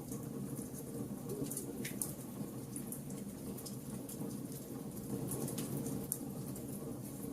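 Wood fire burning with a steady low rush of flames and frequent sharp crackles and pops from the burning wood, a louder pop about two seconds in.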